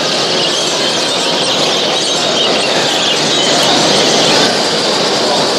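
Dense, steady chorus of many caged show birds chirping and singing at once, over a background hubbub.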